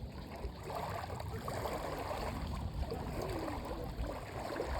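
Shallow salt water lapping and sloshing around bathers, with faint distant voices under it.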